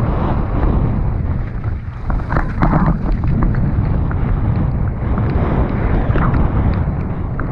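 Mountain bike descending a wet trail at speed: wind buffeting the microphone over a steady rumble of tyres, with many small clicks and knocks from the bike rattling over bumps.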